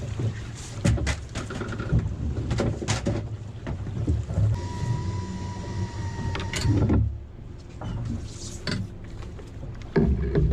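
Knocks, clicks and rattles of fishing gear being handled on a small boat, over a low steady rumble, with a steady whine lasting about two seconds midway through.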